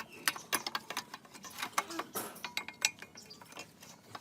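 Small metal parts being handled, giving a run of irregular sharp clicks and clinks of metal on metal.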